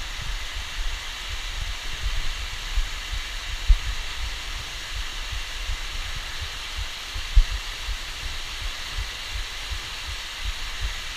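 Steady rushing of a waterfall, with irregular low thumps of buffeting on the microphone and two stronger knocks about a third and two thirds of the way through.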